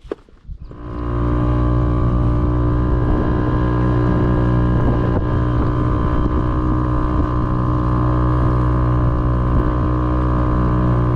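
Outboard motor on a small fishing boat running at a steady, even throttle. It comes up within about the first second and then holds a constant pitch.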